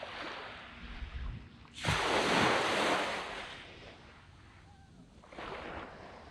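Sea waves breaking on a sandy beach. A large wave breaks about two seconds in and its surf hisses away over the next two seconds, and a smaller wave breaks near the end.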